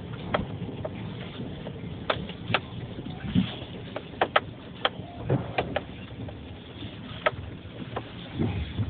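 2011 Subaru Forester driving over rough off-road ground: a steady low rumble from the car, broken by irregular sharp knocks and rattles.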